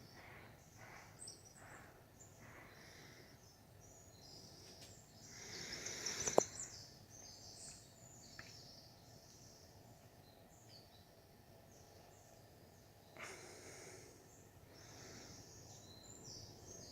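Faint outdoor birdsong: many small birds chirping in short high calls throughout. A rush of noise builds to a sharp click about six seconds in, and a shorter rush comes about thirteen seconds in.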